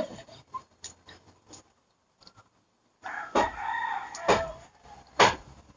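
A rooster crowing once, a held call of a bit over a second starting about three seconds in, with sharp knocks about once a second starting just after it.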